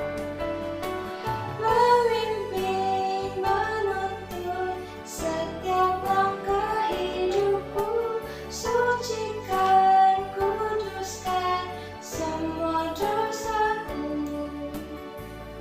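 A praise song being sung over instrumental accompaniment, one held sung note after another.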